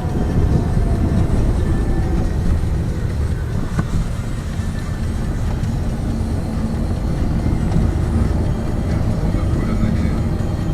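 Lada Vesta Cross with the 1.8 engine heard from inside the cabin while driving: a steady low rumble of engine and road noise, with one faint click about four seconds in.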